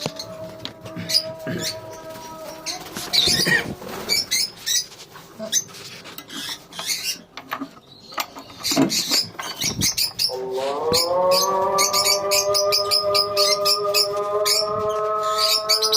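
A colony of lovebirds chirping and squawking in quick, high calls. About ten seconds in, a call to prayer begins over a loudspeaker: one long sung note that slides up and is held.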